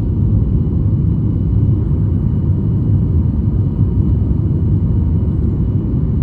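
Cabin noise inside a Boeing 737 MAX 8: a steady, loud low rumble from its CFM LEAP-1B engines at high thrust and the airflow over the fuselage, with faint steady tones above it.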